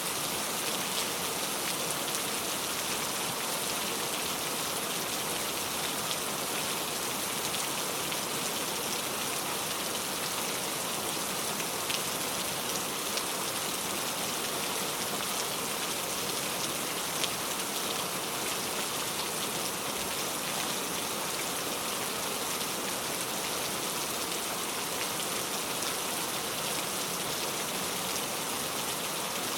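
Steady rain falling, with scattered individual drops pattering on a surface.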